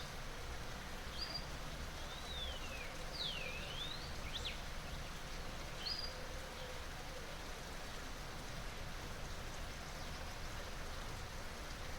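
Flowing water rushing steadily, with a bird calling over it. The bird gives short high notes about a second in and near six seconds, and a run of whistles sliding down and up in pitch between about two and four seconds in.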